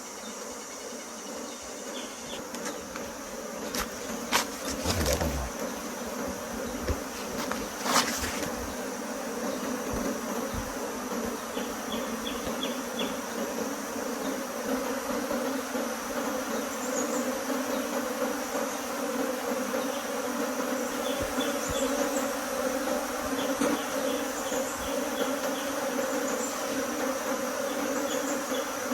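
A swarm of bees buzzing steadily as they arrive at and enter a bee box, the hum slowly growing louder. A few sharp knocks come about four to eight seconds in.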